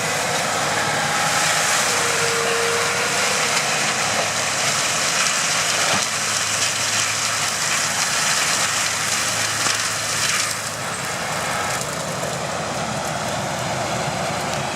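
Heavy forestry machine working on wood: a steady engine drone under a dense grinding hiss, which drops off about ten and a half seconds in.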